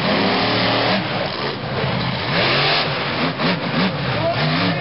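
Monster truck engine revving repeatedly, its pitch rising and falling several times in quick succession.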